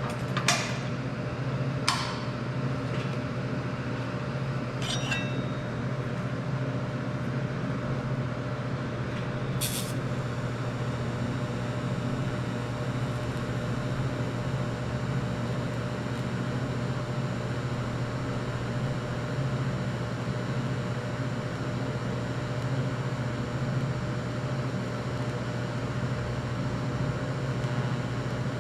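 Miller Syncrowave TIG welder running with a steady low hum and hiss, with a few sharp clicks in the first ten seconds.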